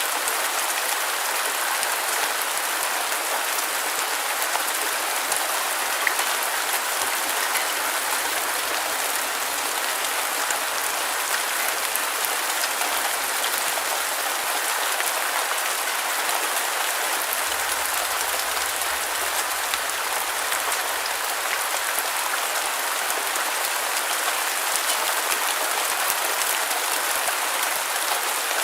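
Steady, dense rain hiss with a fine patter of drops.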